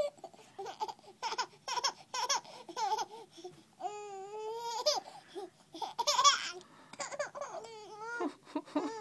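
A baby laughing and babbling in many short, high-pitched bursts.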